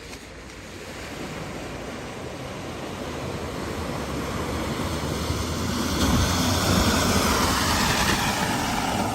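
A vehicle driving through deep floodwater, its engine rumble and the rush of water steadily growing louder as it comes closer, loudest near the end.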